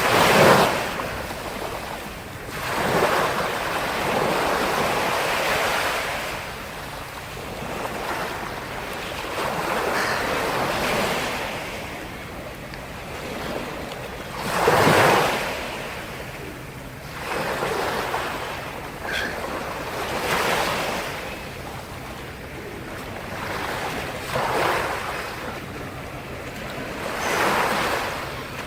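Sea surf: waves breaking and washing ashore one after another, each swelling and fading over a few seconds, with the loudest breakers just after the start and about halfway through.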